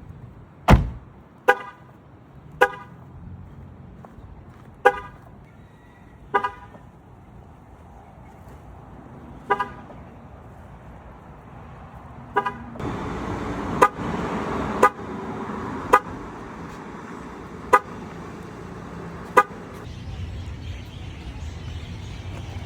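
Car horn giving a short lock-confirmation chirp, repeated about a dozen times at uneven intervals, as the car is locked again and again with the key fob. A steady background noise grows louder from about halfway through.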